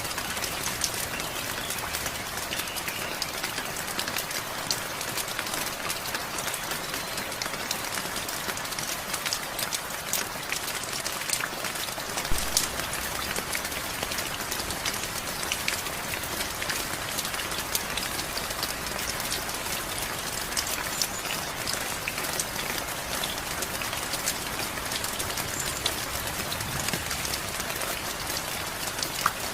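Steady rain falling, with many separate drops pattering on a surface and a brief low thump about twelve seconds in.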